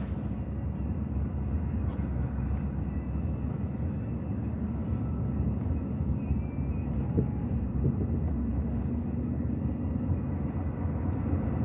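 A vehicle driving, heard from inside the cab: a steady low rumble of engine and tyres.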